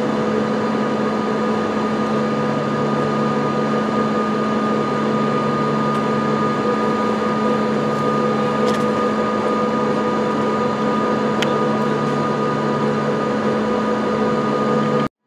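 Steady mechanical hum of a train standing idle, with several held tones over an even machine noise; a lower drone swells in and out twice.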